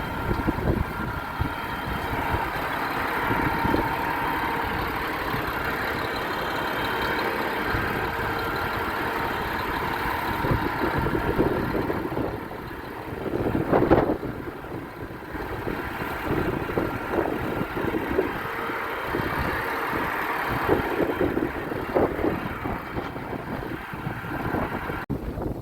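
A vehicle engine running at idle, with a few louder surges about halfway through and again later on.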